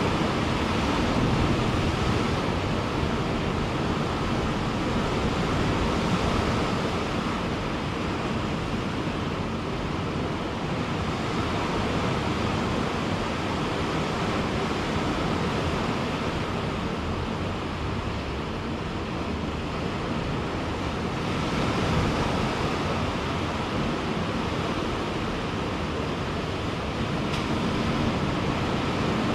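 Ocean surf breaking on a beach, a steady wash of waves that swells and eases slowly, with some wind on the microphone.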